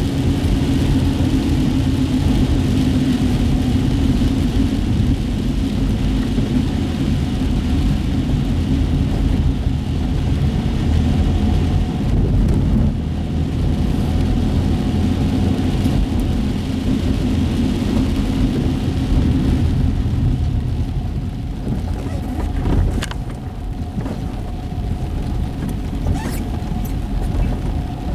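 Car cabin road noise while driving on wet city streets: a steady low rumble of engine and tyres with a faint hiss, easing a little in the later part, where a few short sharp clicks are heard.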